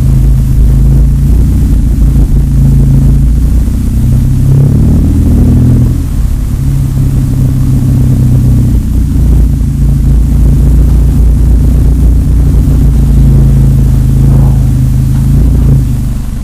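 2010 Acura TSX with Megan Racing aftermarket mufflers, its exhaust running low and steady while driving on the street, with the pitch rising briefly a few seconds in and again near the end.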